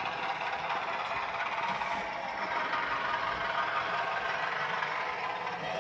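OO gauge model trains running on the layout, a steady rattle of wheels on the track with the whir of their motors.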